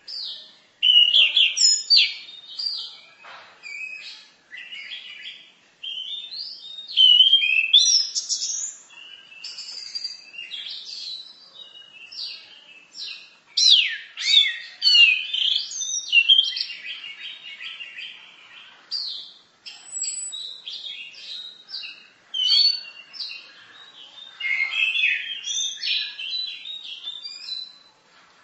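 Orange-headed thrush (anis merah) singing a long, varied song of quick whistles, chirps and trills in phrases with short pauses, laced with phrases mimicked from other birds.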